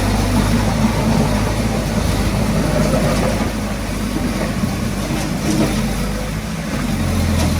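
Diesel engine of heavy earthmoving equipment running steadily with a deep low hum, growing stronger near the end.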